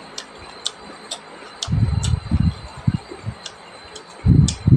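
Close-miked eating of rice and bamboo shoot by hand: wet mouth clicks and smacks about twice a second, with two louder spells of chewing, around two seconds in and near the end. A faint steady high whine runs underneath.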